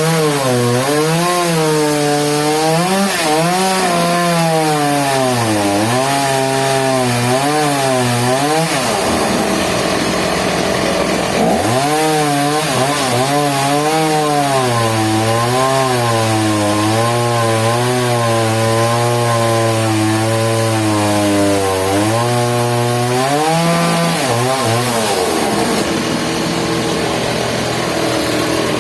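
Engine-driven sawmill cutting a log: the motor's pitch keeps wavering and dipping as the blade takes load. The engine note breaks off for a couple of seconds about nine seconds in, returns, and falls away a few seconds before the end, leaving a steady cutting noise.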